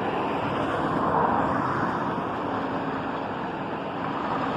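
Steady road traffic noise: a continuous rumble and hiss with no distinct knocks or tones.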